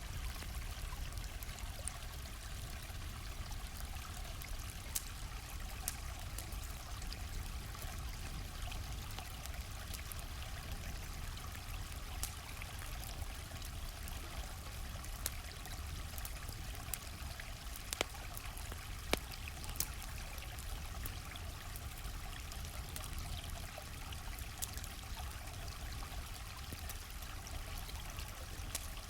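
Stream flowing steadily, with a campfire crackling over it in scattered sharp pops; a few louder pops stand out.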